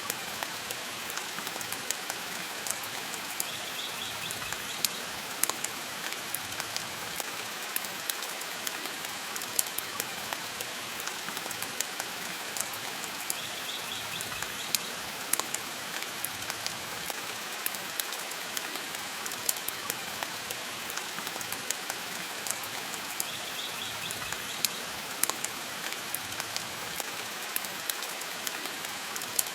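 Steady rain hiss mixed with fireplace crackle, with sharp pops and clicks scattered irregularly through it. A faint high sound recurs about every ten seconds.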